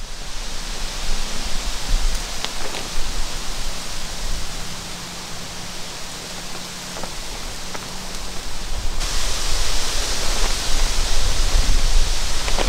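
Heavy rain falling as a steady hiss, with a few faint ticks of drops. The hiss steps up suddenly, louder and brighter, about nine seconds in.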